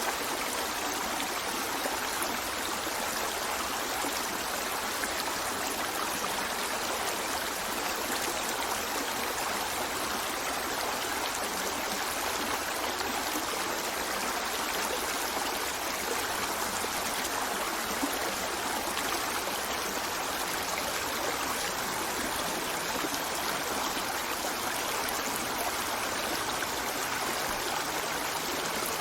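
Running water flowing steadily, an even rushing hiss with no distinct splashes or breaks.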